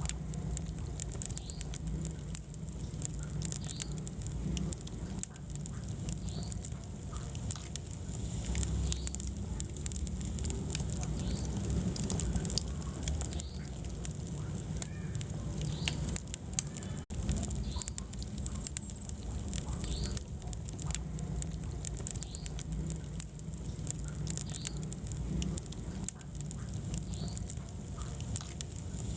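Wood fire burning in a fireplace: a steady low rumble of flames with frequent small crackles and pops from the burning wood.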